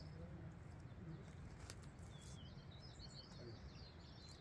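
Faint chirping and twittering of small birds, many short high calls one after another over a low steady outdoor rumble, with a couple of soft clicks.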